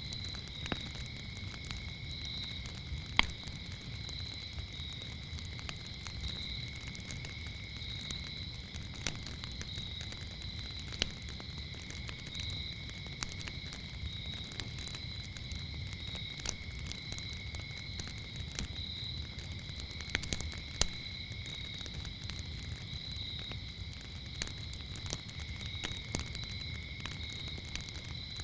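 Wood fire crackling with scattered sharp pops, the loudest about three seconds in, over a low rumble, while crickets chirp in a steady high trill.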